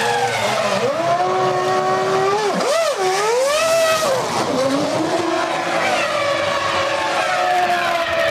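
Formula One car's 3.0-litre V10 engine at racing revs. Its pitch falls, then climbs with two quick sharp dips between gears about three seconds in. It drops again and then climbs and levels off near the end.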